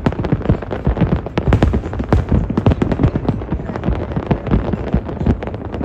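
Fireworks bursting in a dense, rapid volley, several bangs a second over a continuous low rumble.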